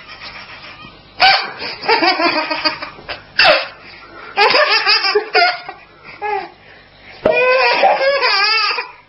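A baby laughing hard, with belly laughs coming in several separate fits broken by short pauses, and the longest fit near the end.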